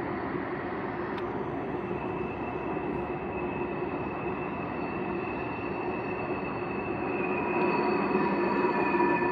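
Distant freight train running steadily through the gorge, a continuous rumble with faint steady whines in it, growing louder near the end.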